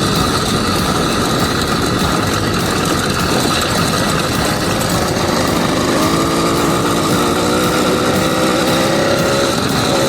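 An 80cc two-stroke bicycle engine running steadily. From about six seconds in, its pitched note comes through more clearly.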